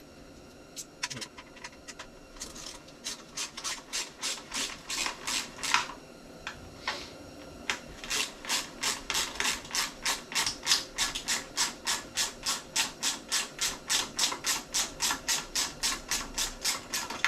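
Hand ratchet wrench working bolts loose: bursts of pawl clicking, irregular at first, then a steady run of about three clicks a second through the second half.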